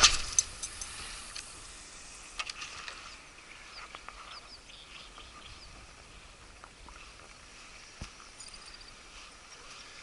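Quiet open-air riverside ambience: faint short high bird chirps and a few light clicks over a soft steady hiss, opened by one sharp click.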